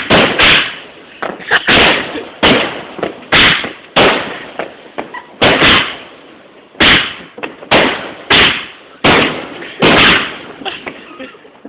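A 19-shot barrel firework cake firing shot after shot: a long run of sharp, loud bangs, one every half second to a second at an uneven pace, each with a short fading tail.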